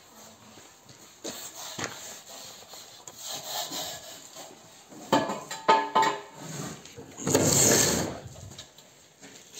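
Hand tool scraping and rubbing over wet mosaic mortar as it is spread and levelled, in irregular strokes with a few knocks, and one longer, louder scrape lasting about a second near the end.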